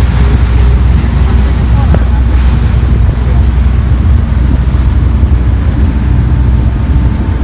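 Boat engine running with a steady low drone, with wind buffeting the microphone and water rushing past.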